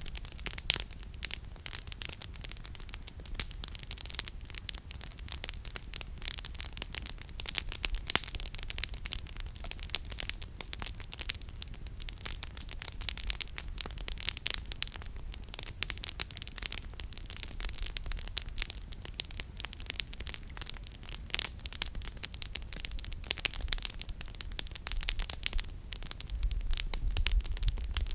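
Campfire of burning firewood crackling, with many sharp snaps and pops scattered irregularly, and a low rumble that grows louder near the end.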